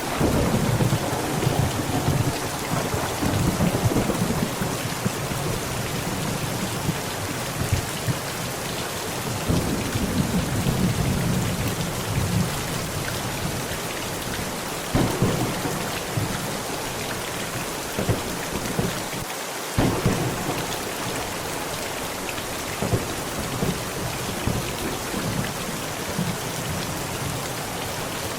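Heavy rain falling steadily on a tent, with thunder. It rolls in the first few seconds and again about a third of the way through. Sharper claps come a little past halfway and about two-thirds of the way in.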